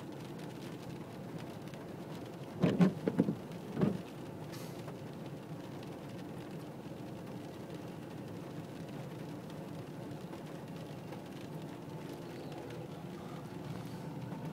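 Steady rain falling. About two and a half seconds in, four brief, much louder sounds come in quick succession.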